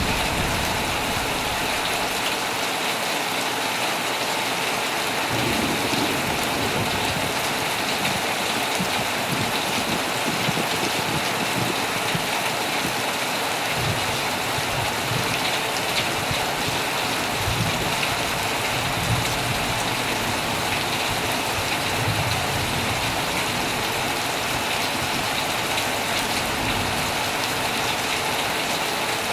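Heavy rain falling steadily on a tent, a dense, even hiss with small drop clicks, and faint low rumbles coming and going underneath.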